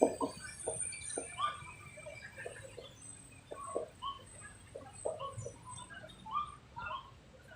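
Short, scattered animal chirps and squeaks, two or three a second, some sharp and click-like.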